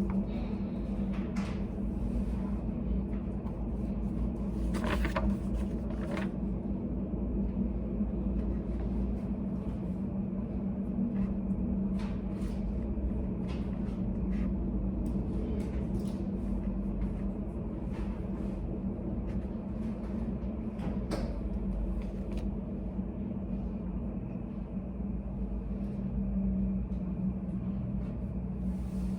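Study café room ambience: a steady low hum with scattered light clicks and knocks, such as small objects being set down or handled.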